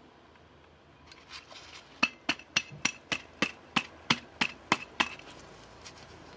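Connecting rod on a worn Honda Dio scooter crankshaft being rocked up and down by hand, clinking metal on metal about three times a second. The clinks come from excessive big-end play in the connecting rod.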